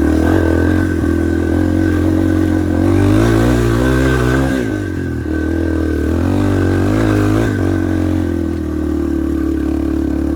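Yamaha TT-R230 dirt bike's single-cylinder four-stroke engine pulling hard up a hill climb, heard close from the rider's chin-mounted phone; the revs rise and fall twice.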